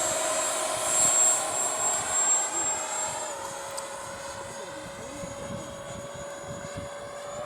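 Electric ducted-fan whine from a model jet in flight, a steady high tone that drops slightly in pitch and gets quieter about three seconds in as the throttle eases back.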